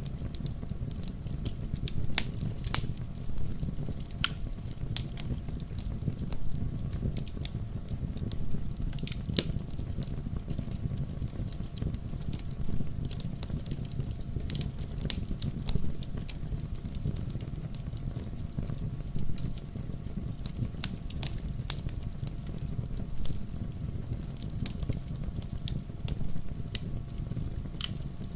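Wood bonfire crackling, with frequent sharp, irregular pops over a low, steady rumble.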